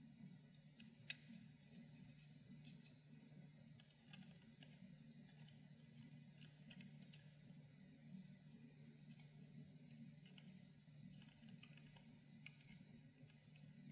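Faint scattered clicks and scratches from handling the small parts of a disassembled computer power-supply fan while grease is worked in, over a steady low hum.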